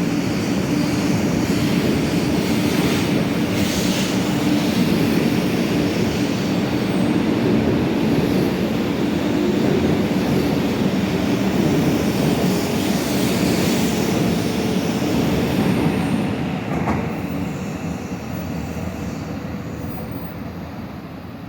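A Sanyo Shinkansen train running past the platform, a loud, steady rumble with a faint hum, which fades away over the last five seconds as the train draws off.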